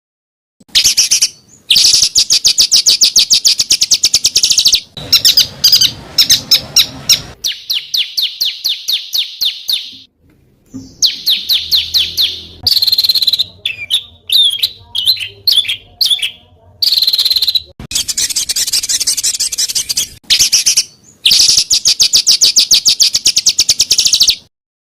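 Small songbirds giving harsh, rapid-fire bursts of high chirps. The notes come very fast in several loud phrases, broken by short gaps and sudden cuts.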